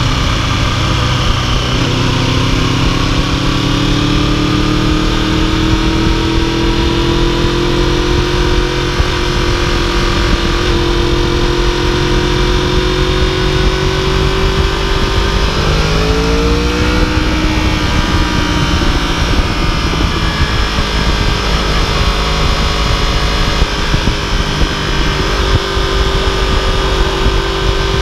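2015 Yamaha YZF-R1's crossplane inline-four engine running under way, its note climbing slowly as the bike gathers speed. About sixteen seconds in the pitch rises sharply and drops back, then holds steady.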